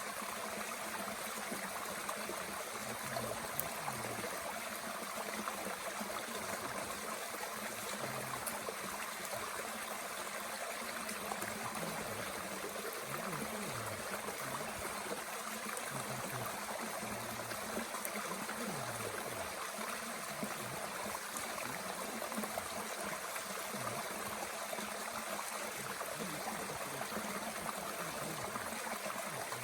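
Mountain stream flowing and trickling steadily, with soft gurgles. A few faint crackles come from a small wood fire in a Bushbox stove.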